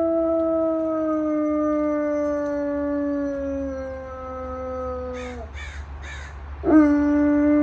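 Dog howling: one long howl slowly sliding down in pitch and trailing off about five seconds in, then three short breathy sounds, then a second, louder howl that starts with a quick upward scoop and holds.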